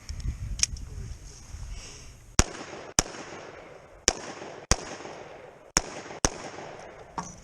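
Revolver firing six shots in three pairs: two quick shots, a pause, two more, a pause, and the last two. This is the six-round cylinder being emptied.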